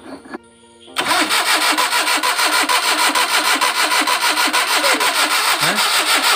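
Maruti 800's three-cylinder engine being turned over by the starter motor. It starts about a second in, cranks in rapid even pulses for nearly six seconds, and cuts off suddenly.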